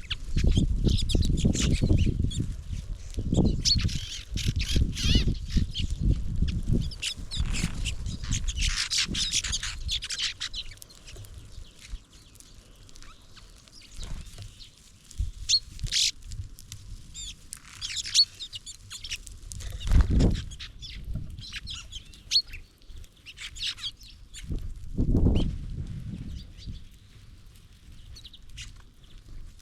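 Small songbirds chirping and calling, with many short high notes scattered throughout. Low rumbling bursts come through loudly in the first seven seconds, and again about twenty and twenty-five seconds in.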